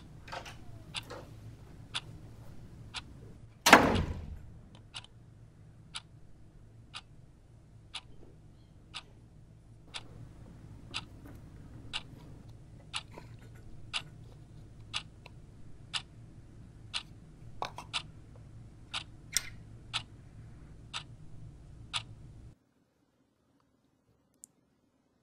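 A clock ticking steadily about once a second over a low room hum. A loud thud, like a door shutting, comes about four seconds in. Near the end the ticking and hum cut off abruptly.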